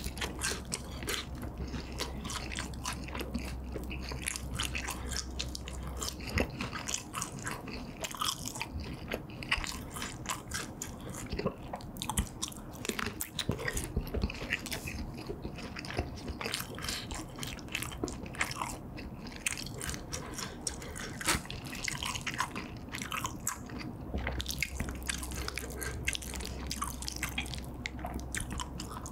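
Close-miked chewing and biting of fried battered chili pepper and kielbasa sausage, with many short crisp crunches and mouth clicks.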